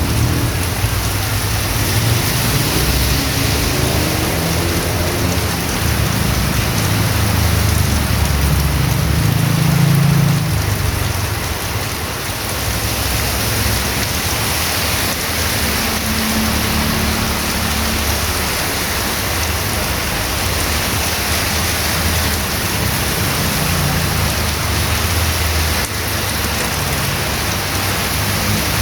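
Heavy rain falling steadily, a dense even hiss. A low rumble swells and fades beneath it, loudest about a third of the way in.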